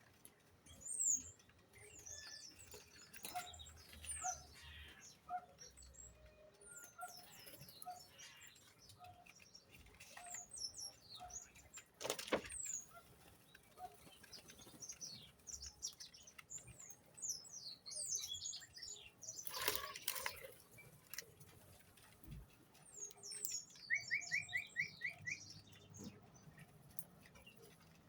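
Many small birds chirping and twittering in short, quick calls, with a quick run of about six repeated notes near the end. A few sharp taps or wing flutters sound among them.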